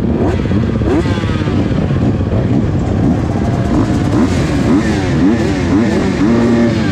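Several motocross bikes running at once, their engines revving up and down so that the rising and falling pitches overlap and cross.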